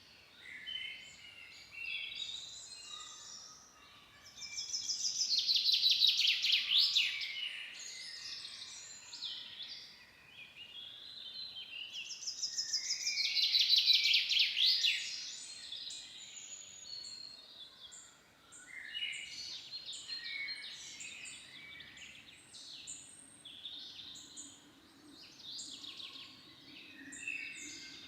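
Forest songbirds singing, a mix of chirps and short phrases from several birds. One bird twice sings a loud, fast trilled song that swells and then breaks off, the two songs about seven seconds apart.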